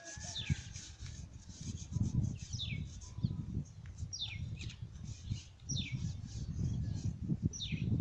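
A bird calling repeatedly, a short downward-sliding call about every one and a half to two seconds, over a low, uneven rumble.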